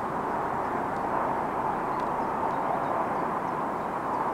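Approaching diesel passenger train heard from a distance as a steady, even roar with no distinct engine note.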